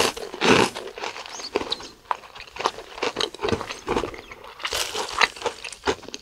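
Close-miked chewing of a mouthful of dessert: a string of soft crunches and wet mouth clicks at irregular intervals.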